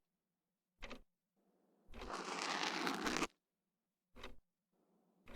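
Ear-pick scraping inside the ear for ASMR ear cleaning: scratchy rustling strokes, a short one, then a longer one of over a second, then another short one.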